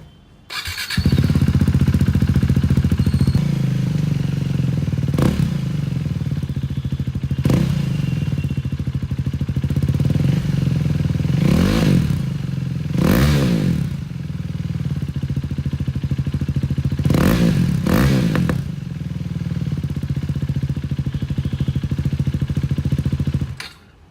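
KTM Duke 390's single-cylinder engine through an aftermarket Akrapovic exhaust: it starts about half a second in, idles a little fast and then settles, and is blipped about six times in short revs, twice in quick pairs. It is switched off just before the end.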